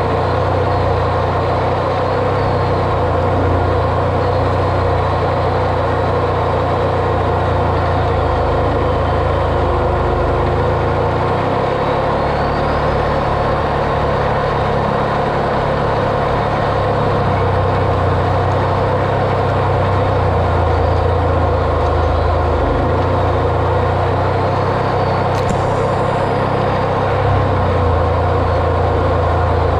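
Off-road vehicle engine running steadily while driving, a continuous low drone with no change in pace. A single brief click about 25 seconds in.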